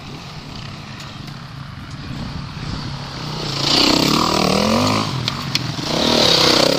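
Off-road vehicle engine revving up twice, rising in pitch each time, about four and six seconds in, over steady engine noise, with a couple of short clicks in between.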